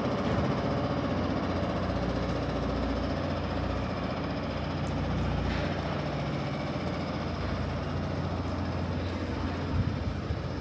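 A motor vehicle's engine idling steadily nearby, a low even hum.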